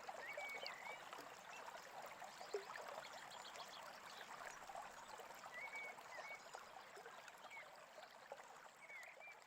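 Faint babbling brook, a steady rush of running water, with birds chirping now and then over it.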